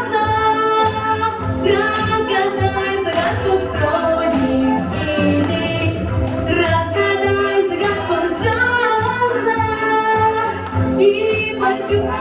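A female singer's voice singing a jazz song over an instrumental backing track with a steady bass line.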